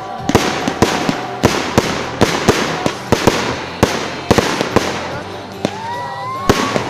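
Fireworks display going off: many sharp bangs in quick, irregular succession over a steady crackle, with a rising whistle a little before the end.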